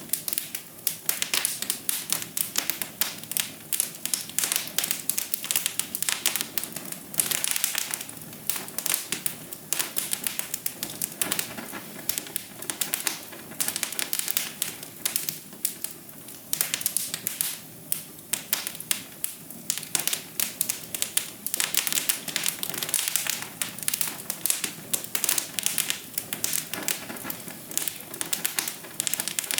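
Wood fire in a fireplace crackling, with many sharp irregular pops and snaps over a steady low hiss of burning.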